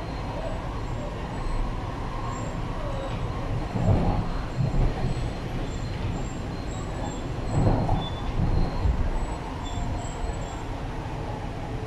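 Interior running noise of an MTR East Rail Line R-Train in motion: a steady low rumble of wheels on track, heard inside the passenger car, swelling louder briefly about four seconds in and again around eight seconds in.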